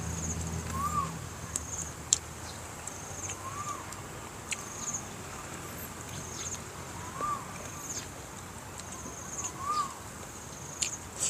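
Short rising-and-falling bird calls repeat every two to three seconds over a higher trilled chirp that recurs about every two seconds. A few sharp clicks of eating by hand come through, the loudest about two seconds in.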